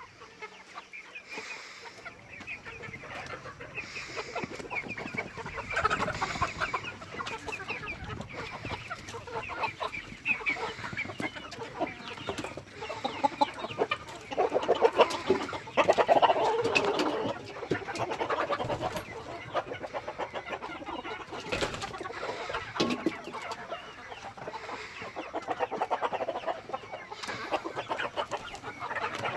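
A flock of Light Sussex chickens clucking continuously, many birds at once, loudest for a few seconds around the middle.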